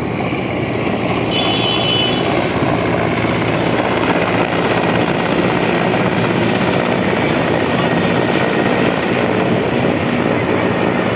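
Helicopter running close by, its rotor and turbine engine making a loud, steady noise with a fast chop.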